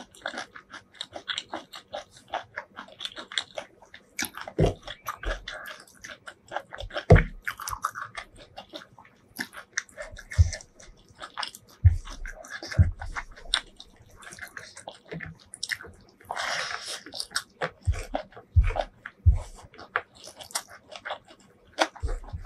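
Close-miked chewing with wet, clicking mouth sounds and smacks, joined at times by fingers squishing and mixing rice with curry and spinach.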